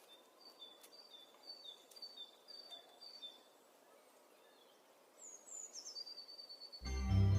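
A bird calling faintly: short chirps alternating between a higher and a lower note, about two a second, then a few quick falling chirps. Music with a heavy bass starts near the end and is the loudest thing.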